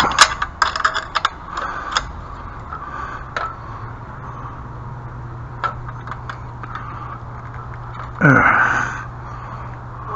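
A quick run of clicks and light knocks from hardware being handled, then a few scattered clicks over a steady low hum; about eight seconds in a man lets out a short groan that falls in pitch.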